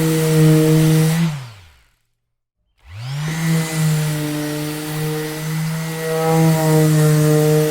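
Electric orbital sander running with a steady hum, switched off about a second in so its motor winds down to silence, then switched on again just under three seconds in, spinning back up to speed and running steadily.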